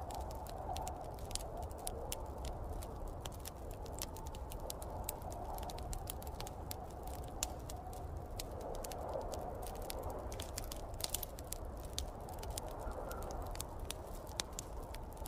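Wood fire crackling, with frequent irregular sharp pops, over a steady low rumble and hiss of snowstorm wind.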